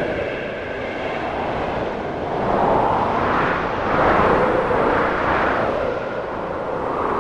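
Snowstorm wind blowing in gusts, swelling through the middle and easing off again, with a faint whistling tone near the end.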